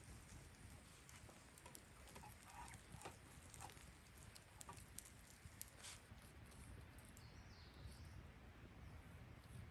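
Faint scattered clicks and ticks over a low hum, with a short high bird chirp about three-quarters of the way through.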